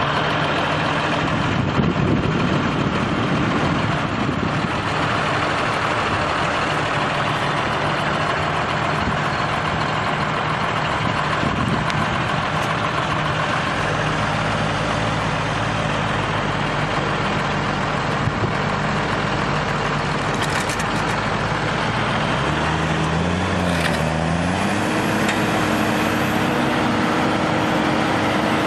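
Heavy vehicle's diesel engine running steadily. Its pitch dips and then rises again a few seconds before the end.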